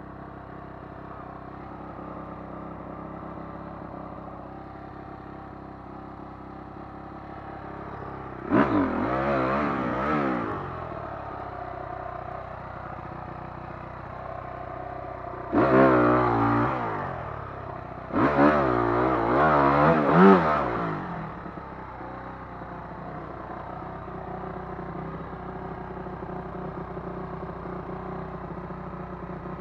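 Dirt bike engine running at low revs, opened up hard three times, each burst lasting one to three seconds with the pitch wavering up and down.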